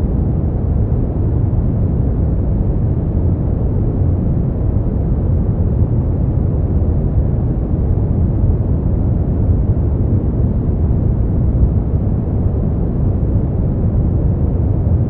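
Brown noise: a steady, deep rumbling hiss with most of its energy in the bass, unchanging throughout.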